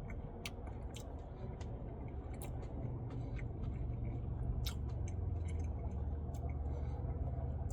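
A person eating a Blizzard: quiet chewing with scattered small clicks and taps, over a steady low hum.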